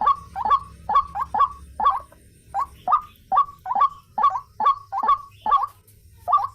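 White-breasted waterhen calling: a fast series of harsh repeated notes, about three a second, with brief pauses about two seconds in and near the end.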